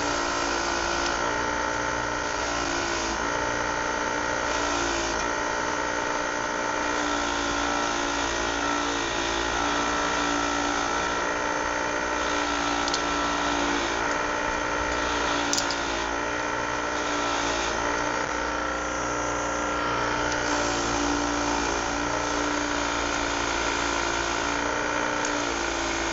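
A motor running steadily, a constant whine over a low hum that holds one pitch throughout, with a single sharp click about fifteen seconds in.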